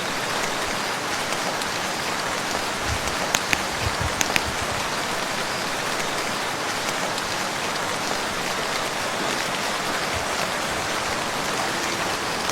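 Steady rain falling on a lake, an even hiss, with a few louder single drops standing out about three to four seconds in.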